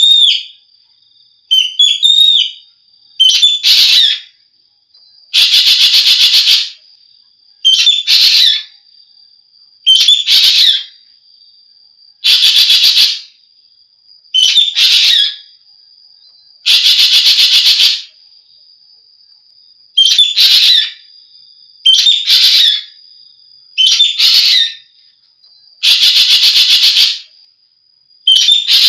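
Asian glossy starling (jovin) calling loudly and repeatedly, about once every two seconds. The calls alternate short sharp chirps with longer buzzy, rapidly pulsed notes. A thin steady high whistle runs beneath them.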